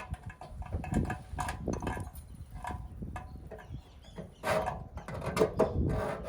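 Irregular clicks, knocks and scraping from hands and tools at work, with a louder scraping stretch about four and a half seconds in.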